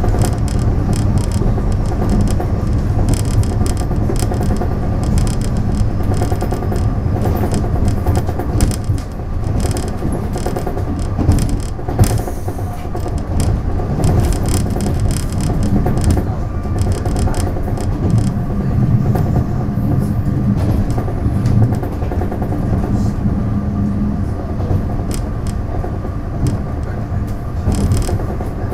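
Taiwan Railways DR3000 diesel multiple unit running along the line: a steady low diesel drone under the clatter of wheels on rail, with a louder clack about twelve seconds in.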